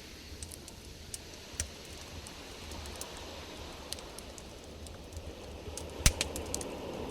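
Campfire crackling: scattered sharp pops and snaps of burning wood, one loud snap about six seconds in, over a low steady rumble.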